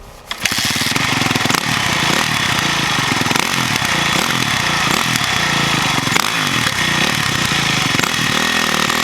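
2009 Yamaha YZ450F's single-cylinder four-stroke engine running through its FMF exhaust, cutting in abruptly just after the start and revved up and down again and again.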